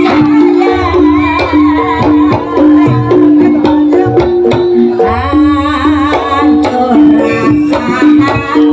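Jaranan music from a live Javanese ensemble: kendang hand-drum strokes under a steady, repeating two-note figure on gong-chimes, with a wavering melody line over the top.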